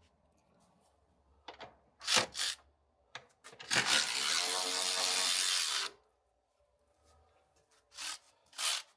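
Mechanic's parts and tools being handled: a few sharp metal clanks, then a steady rasping, mechanical sound for about two seconds, then two more clanks near the end.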